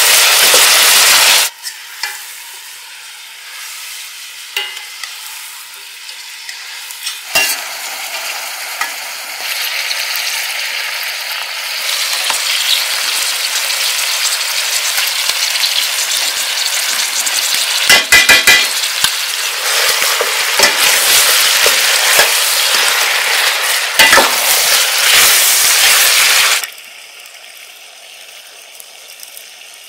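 Pieces of goose frying and sizzling in hot fat in a steel pot, stirred with a metal slotted spoon, with a few clinks of the spoon against the pot in the middle. The sizzle is loud at first, eases for a few seconds, swells again through the middle and drops off suddenly near the end.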